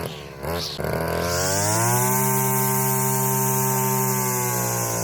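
Brush cutter engine being revved with the throttle: a quick blip, then it climbs to high revs about a second in and holds there steadily for around three seconds before easing off slightly near the end.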